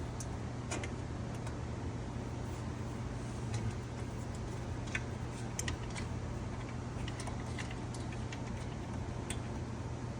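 Scattered light clicks and ticks of a Phillips screwdriver working the screws of a bandsaw's upper blade cover, over a steady low hum.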